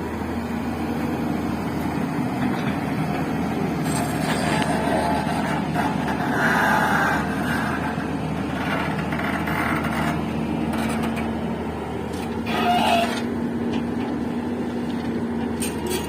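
Heavy diesel machinery engine running steadily, with a low hum and some irregular louder mechanical noises over it.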